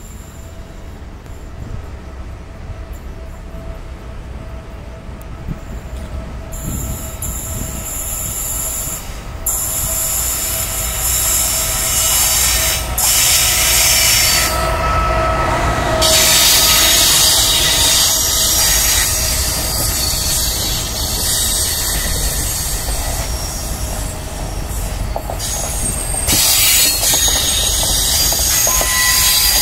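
FS E464 electric locomotive and regional passenger coaches approaching and rolling past, growing louder. High-pitched steel wheel squeal sets in about six seconds in and carries on as the carriages go by, over a steady low rumble.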